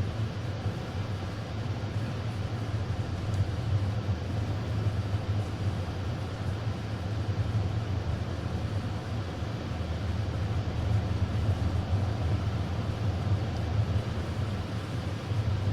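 Steady road noise heard from inside a moving car: a low, even rumble of tyres and engine while cruising on the expressway.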